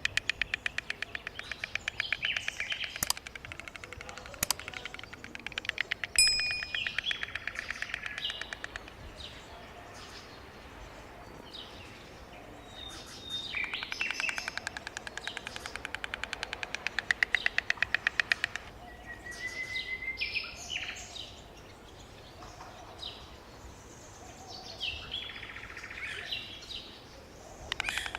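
White stork clattering its bill: bouts of rapid, even clicking like a wooden rattle, near the start, in the middle, and again near the end. Other birds chirp in between.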